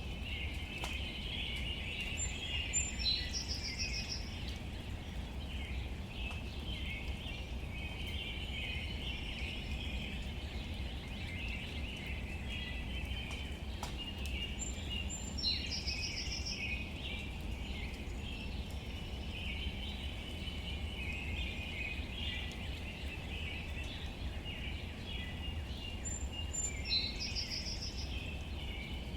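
Outdoor ambience of birds chirping: a dense, unbroken chorus of high chirps, with one louder, higher call with a short trill heard three times, about twelve seconds apart. Under it runs a steady low background hiss.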